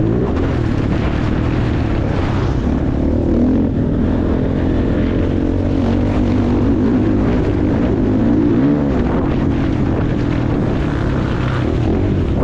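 Motocross bike engine revving hard and easing off over and over, its pitch rising and falling as it is ridden around the track.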